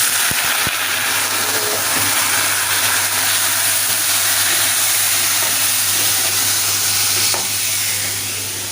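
Onions and whole spices sizzling steadily as they fry in hot oil in a pan, with a few light knocks of stirring in the first second.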